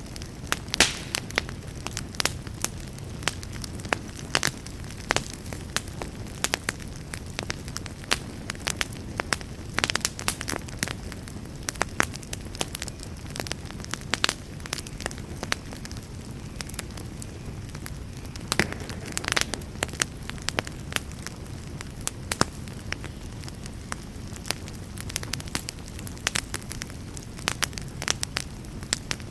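Wood campfire crackling, with sharp irregular pops and snaps several times a second over a steady low rumble.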